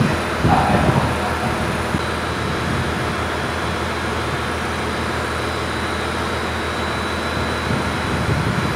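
HB-E300 hybrid diesel railcar standing at a platform with its machinery running in a steady low hum. A faint high whine joins it a couple of seconds in.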